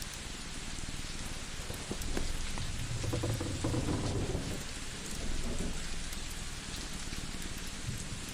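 Layered cozy ambience: a steady rain-like hiss with fine crackles, and a low pulsing cat purr underneath. A low rumble swells about three seconds in and fades by about five seconds.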